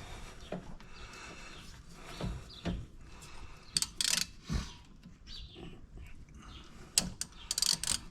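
Hand tools working on the brake caliper bolts: scattered clinks and knocks of metal on metal, with short rasping bursts about four seconds in and again near the end.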